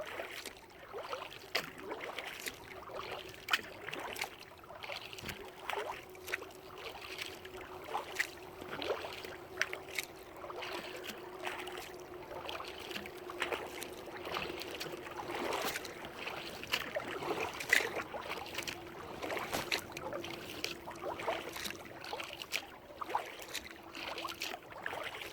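Kayak paddling: the paddle dipping and splashing with water dripping and lapping, in many irregular small splashes and knocks, over a faint steady hum.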